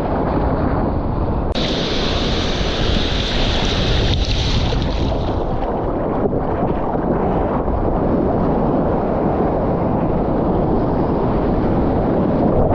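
Wind buffeting the GoPro's microphone over the wash of lake surf, a steady rumbling noise with no pauses. A brighter hiss joins it from about a second and a half in and fades out around five seconds.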